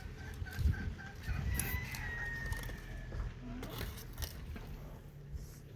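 A rooster crowing once, a long call starting about a second and a half in, with some shorter clucking calls before it and a few knocks.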